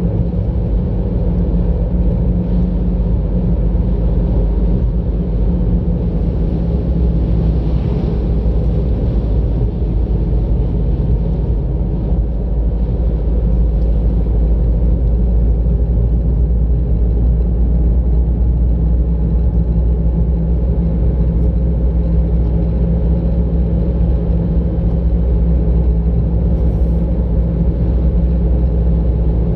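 A moving car's engine and road noise: a steady low rumble that keeps up evenly throughout.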